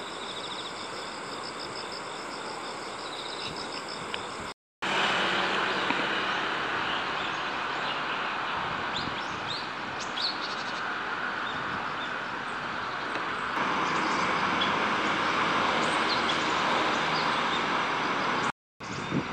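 Small wild birds chirping with short, high calls scattered over a steady outdoor background hiss. The sound drops out abruptly twice, at cuts between clips.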